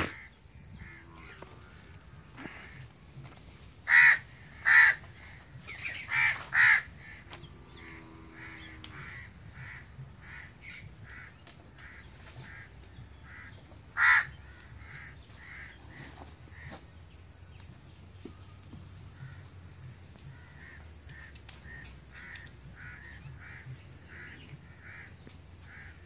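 Birds calling over and over in short calls. A few loud calls come close together a few seconds in and another loud one comes around the middle, with fainter calls the rest of the time.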